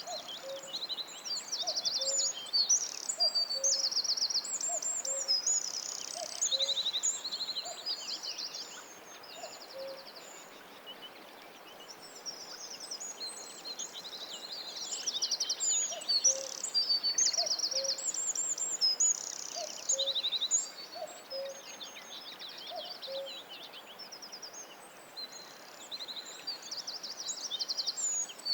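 A chorus of forest songbirds singing, with many overlapping high trills and chirps. Under it a lower two-note call repeats about once a second, dropping away for a few seconds mid-way and then returning.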